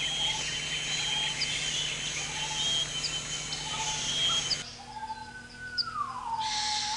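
Birds chirping over a steady hiss. About four and a half seconds in, the hiss cuts away abruptly and a long whistled note slides down in pitch, while short high chirps go on.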